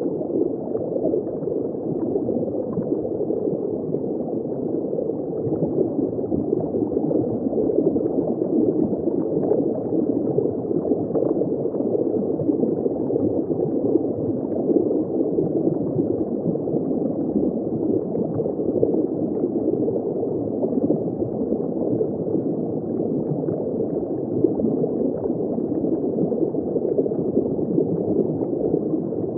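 Underwater ambience recorded just below the surface: continuous muffled bubbling and gurgling of water, steady throughout, with the sound dull and low, lacking any high end.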